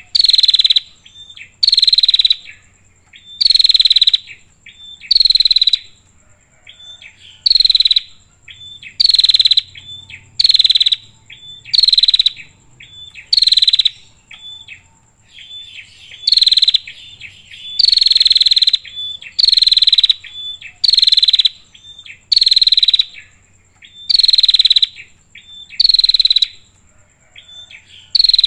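Female prinia (prenjak) calling: a loud, harsh, rasping note of about half a second, repeated roughly every one and a half seconds, with short thin chirps between the calls.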